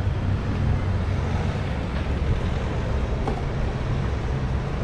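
Steady street noise with a low rumble, heard from a bicycle riding through city traffic.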